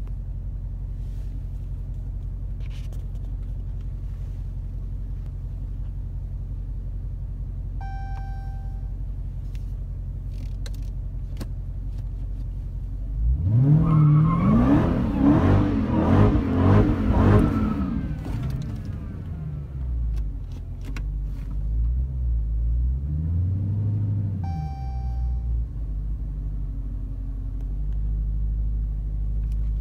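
Supercharged 6.2-litre Hemi V8 of a Dodge Hellcat idling with a low rumble, then revved hard several times in quick succession with the car standing still. It settles through smaller revs back to idle. A short electronic chime sounds twice, once before and once after the revving.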